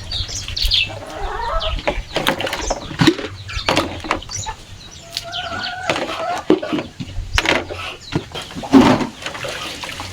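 Chickens, a hen and her chicks, calling with short clucks and cheeps, among scattered sharp taps and knocks.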